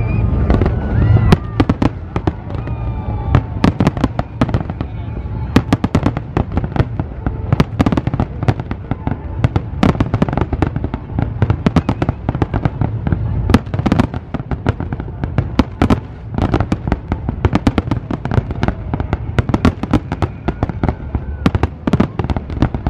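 Fireworks display: many sharp bangs from bursting aerial shells in quick, continuous succession.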